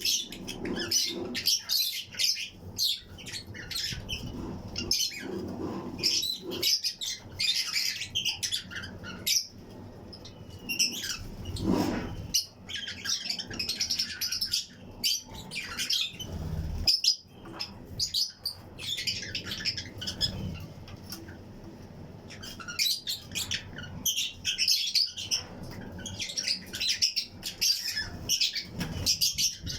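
A colony of Fischer's and lutino lovebirds chirping continuously in an aviary flight cage: many short, high, overlapping chirps, with a few soft thumps in between.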